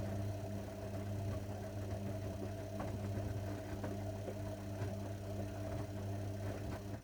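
Zanussi washing machine running with a steady, even hum and a few faint ticks, then cutting off abruptly at the very end.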